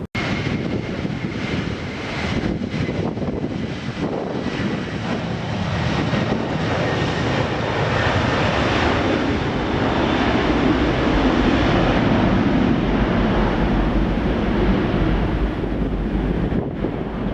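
Jet airliner's engines at takeoff power. The noise builds over about the first ten seconds and then holds, with a faint thin whine near the start.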